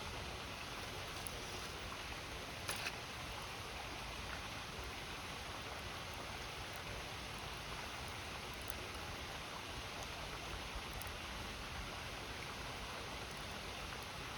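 River water flowing with a steady rush, and a wood campfire giving a few faint crackles, one a little louder about three seconds in.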